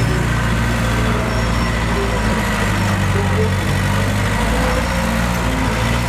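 Heavy diesel engine of earth-moving equipment running steadily at a constant speed.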